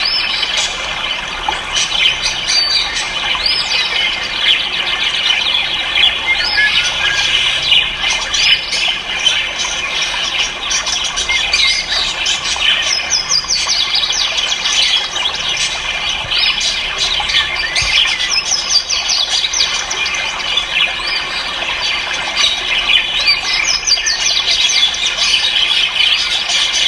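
Many caged ornamental birds chirping, tweeting and squawking at once, a dense unbroken chorus of overlapping high, short calls.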